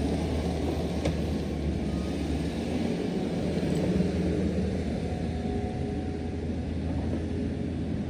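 Diesel engine of heavy earthmoving equipment running steadily, a constant low rumble, with a faint click about a second in.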